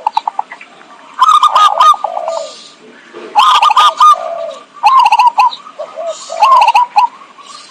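Zebra dove (perkutut) calling: four phrases of quick rippling coos, each under a second long, about one and a half seconds apart, played as a bird-trapping lure call.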